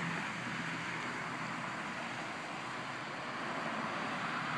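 The 2005 Ford Five Hundred's V6 engine idling, a steady even noise.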